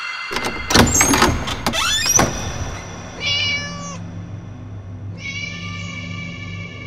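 Clattering knocks in the first two seconds, then a cat meowing, over a low hum.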